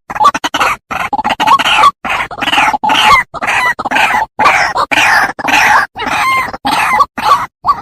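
White-breasted waterhen (ruak-ruak) calling: a fast, loud run of harsh croaking notes, about two or three a second, breaking off near the end.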